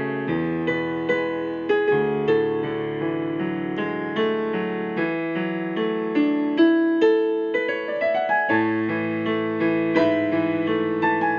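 Solo piano playing a slow, gentle piece, single struck notes and chords sounding one after another, with a short rising run of notes about eight seconds in.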